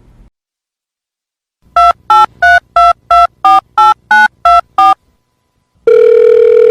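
Telephone keypad dialing: about ten quick touch-tone beeps, each a pair of tones, in an even rhythm of about three a second. About a second later comes a loud, steady line tone lasting about two seconds.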